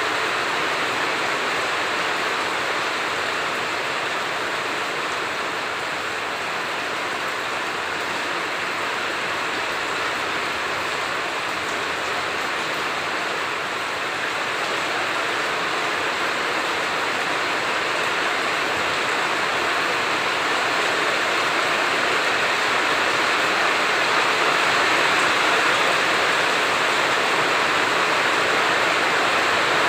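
Heavy rain falling steadily: a dense, even hiss with no thunder, growing slightly louder over the last third.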